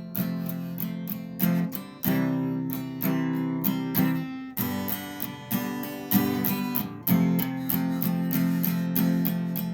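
Acoustic guitar strummed in a steady rhythm, changing chords every second or two: an instrumental break between sung verses.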